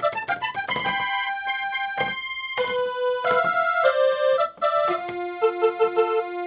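Music played on an electronic keyboard: a quick run of notes, then held chords, and near the end a repeating figure over a steady held low note.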